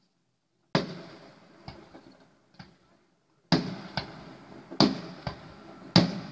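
Aerial firework shells bursting in a string of sharp bangs, about eight in all, starting a little under a second in. Each bang is followed by a rolling echo.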